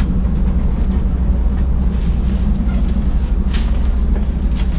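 Steady low rumble inside a Thai express sleeper train carriage, with a brief rustle of bedding about three and a half seconds in.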